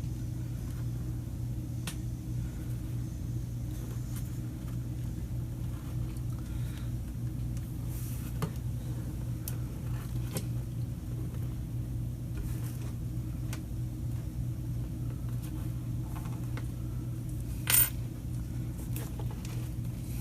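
Blade slitting the rubber outer jacket of an extension cord: faint scrapes and small clicks, with one sharper click near the end, over a steady low hum.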